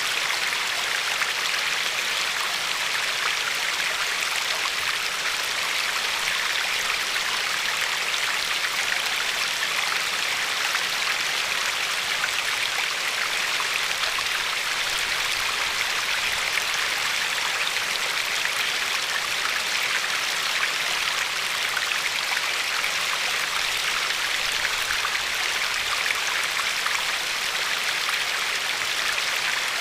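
River water flowing and lapping along a pebble shore: a steady, even rush with no breaks.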